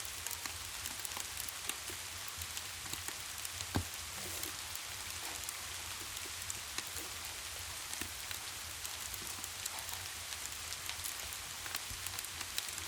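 Steady rain: an even hiss dotted with many small ticks of drops, over a low steady rumble. One sharper click stands out about four seconds in.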